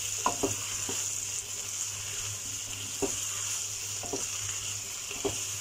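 Okra with onion and tomato masala sizzling in oil in a kadhai as it is stir-fried, with about five short knocks and scrapes of the spatula against the pan. It is being fried down (bhuna) to cook off the okra's sliminess.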